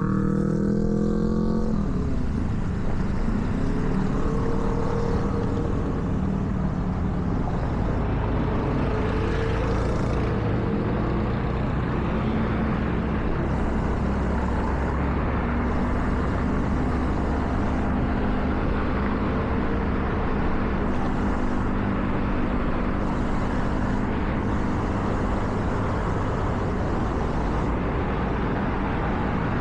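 Car driving on wet roads: the engine's pitch rises as it accelerates in the first second or two, then settles into a steady cruise under a constant hiss of tyres on wet tarmac.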